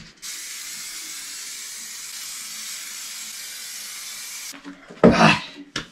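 Aerosol spray-paint can hissing in one steady spray of about four seconds, starting and stopping abruptly, while the handle is painted. A short louder sound follows about five seconds in.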